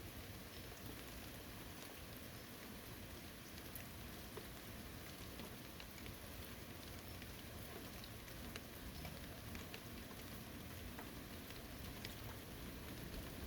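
Steady rain falling on a forest, a soft even hiss with scattered individual drops ticking.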